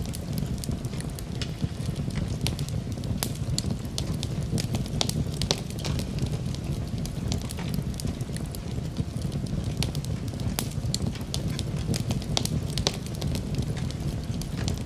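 Wood fire burning in a fireplace: a steady low rush of flame under frequent sharp, irregular crackles and pops of burning wood.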